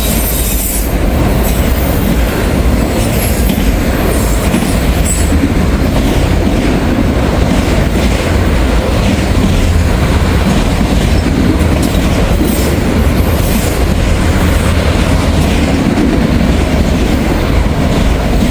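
Freight train of auto-rack cars rolling past close by: a loud, steady rumble of steel wheels on the rail with clacking.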